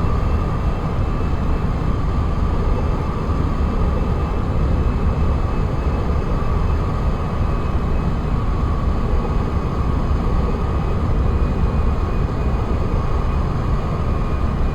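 Jet airliner engines: a steady rumble with a faint high whine running through it.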